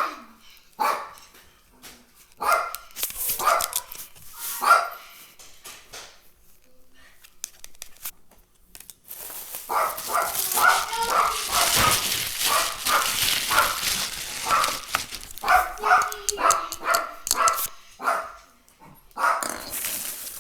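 A dog barking in short repeated barks, in clusters, with a stretch of hissy noise in the middle.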